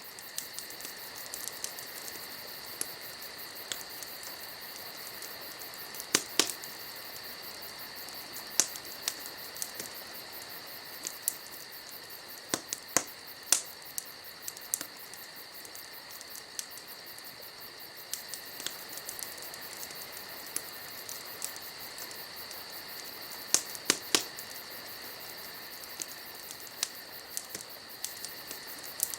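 Campfire wood crackling, with irregular sharp pops every second or so, over a steady high-pitched insect chorus.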